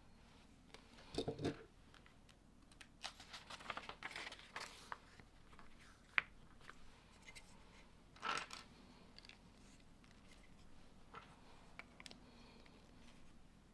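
Plastic Lego pieces being handled and pressed together, making faint scattered clicks and rustles, with one sharper snap about six seconds in.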